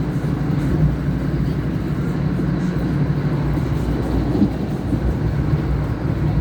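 Moving passenger train's steady running noise heard from inside the carriage: a low, even rumble.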